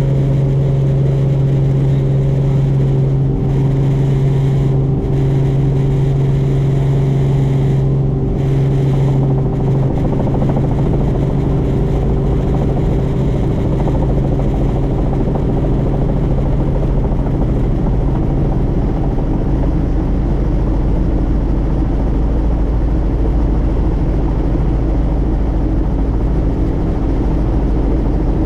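Helicopter in flight: a loud, steady drone of engine and rotor, a low hum with several steady tones over a deep rumble. About ten seconds in the lowest tone fades and the rumble becomes deeper.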